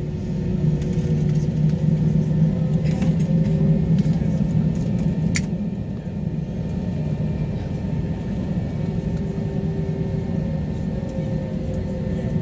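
Steady low rumble inside an Airbus A321 passenger cabin on the ground after landing, with one short click about five seconds in.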